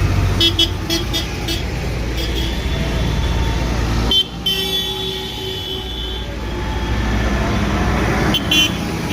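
Convoy of tractors and other vehicles passing with a steady engine rumble. A horn sounds about four seconds in, held for a second or so, with short toots in quick succession near the start and again near the end.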